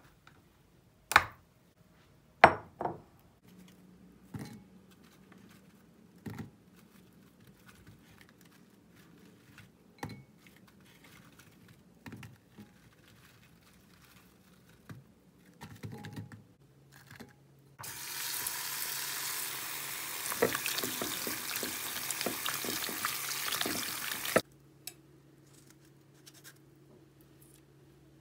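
A few sharp knocks of kitchenware near the start, then a kitchen tap running for about six seconds and shutting off abruptly, with small clinks while it runs.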